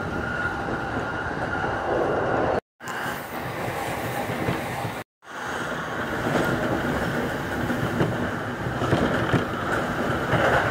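Electric train running at speed, heard from inside the car: a steady rolling rumble of wheels on rails. The sound cuts out briefly twice, about two and a half and five seconds in.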